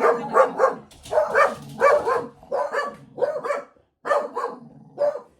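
Pet dogs barking in a rapid string of short, sharp barks, many coming in quick pairs. It is alert barking, set off by the neighbour.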